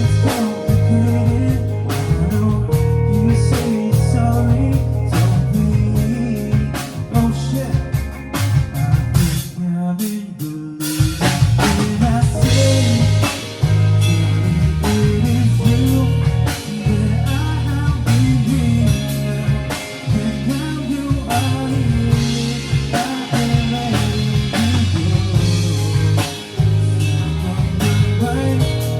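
Band playing an instrumental break with electric guitar, bass and drum kit. The band stops briefly about a third of the way in, then comes back in fuller.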